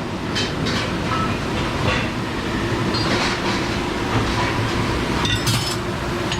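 Steady rumbling of a commercial kitchen dish station, with dishes and racks clinking and clattering now and then.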